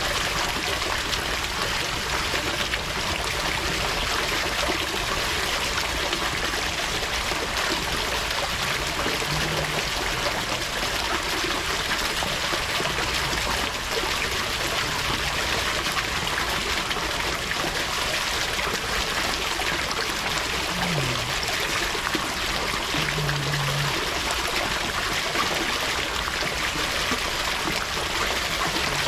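Water running steadily in a continuous trickling stream.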